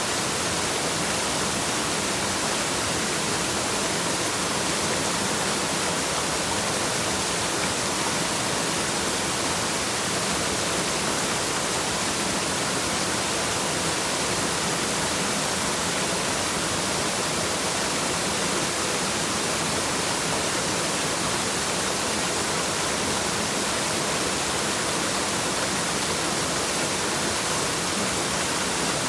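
Waterfall rushing steadily, an even hiss weighted to the high end with little low rumble.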